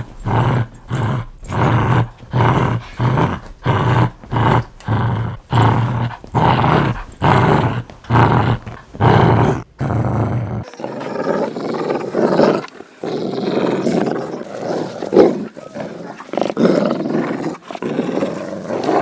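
Dog growling in regular pulses, about two a second. About ten seconds in, it changes to another dog's growl, which is more continuous and uneven.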